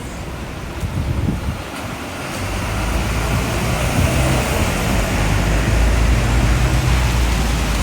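Typhoon wind gusting and buffeting the microphone as a loud rush with a deep rumble. It builds up from about two and a half seconds in.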